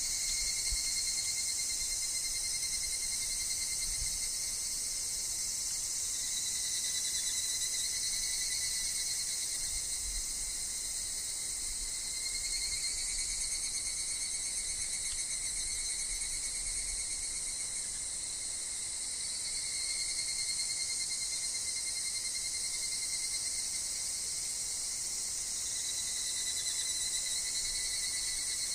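Higurashi (evening cicadas) calling in overlapping trilling phrases that swell and fade every few seconds, over a steady high insect drone. Faint low wind rumbles come and go.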